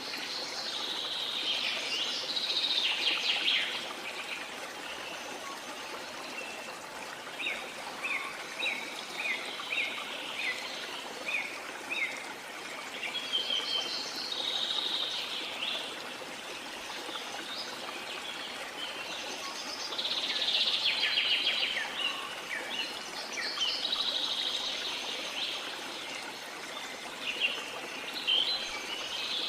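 Rainforest ambience: steady rain hiss with bouts of many birds calling and chirping over it, including a run of short, quick chirps and several louder chattering spells.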